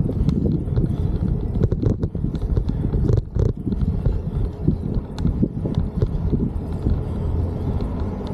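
Wind rumbling on the microphone while riding a folding e-bike, with irregular knocks and rattles as the bike goes over bumps in the path.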